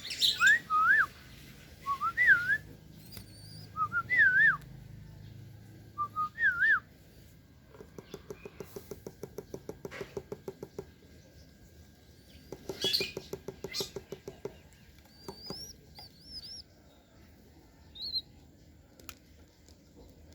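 Short whistled notes that swoop up and down, repeated several times over the first seven seconds. After them comes a rapid run of soft ticks, about seven a second, and near the end a few faint high chirps.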